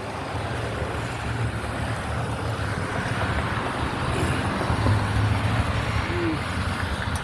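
Steady rumbling road and wind noise from a bicycle ride, with a few faint short chirps in the second half.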